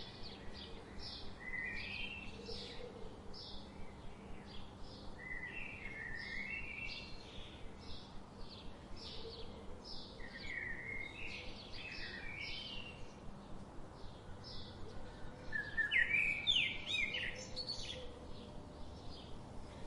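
Songbirds calling and singing: a run of short high chirps, several a second, with a louder song phrase about three quarters of the way through, over a steady low rush of river water.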